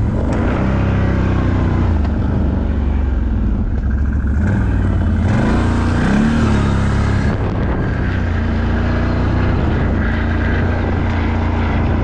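ATV engine running, its pitch climbing sharply as it revs about halfway through, then settling back to a steady drone.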